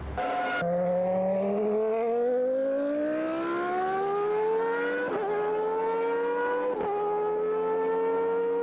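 Williams FW15C Formula One car's 3.5-litre Renault RS5 V10 accelerating hard, its note climbing steadily through the revs. It drops sharply at upshifts about five and seven seconds in, then climbs again.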